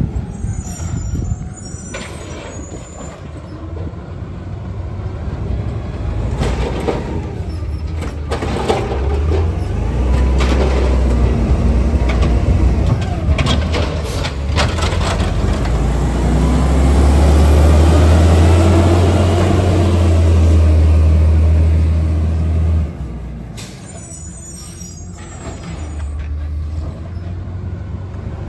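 Garbage truck engine running under load, building up and then dropping back sharply about three-quarters of the way through, with short hisses and clanks along the way.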